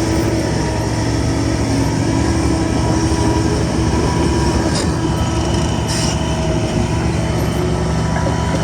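Shantui crawler bulldozer's diesel engine running steadily under load, with the squeal and metallic grind of its steel tracks, and a couple of sharp clanks about five and six seconds in.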